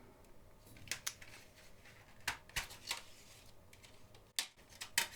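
Light handling noises from a CD-and-DVD single package: scattered soft clicks and rustles of plastic and paper, about half a dozen short ticks spread through.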